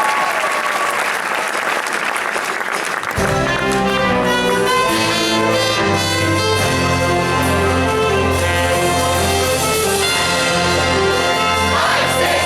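Audience applause that gives way, about three seconds in, to a band striking up with brass horns and a heavy bass line.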